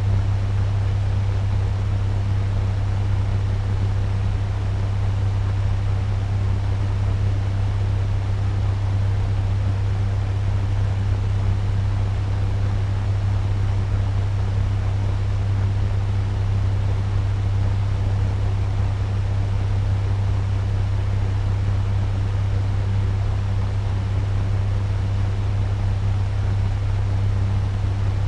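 Turbo fan running steadily at medium speed: an even rush of moving air over a strong, steady low hum.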